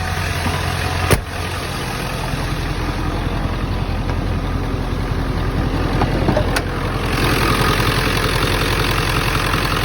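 Ford 7.3 Power Stroke turbo-diesel V8 idling steadily, with a sharp click about a second in and another about six and a half seconds in; from about seven seconds on the engine sounds brighter and more open.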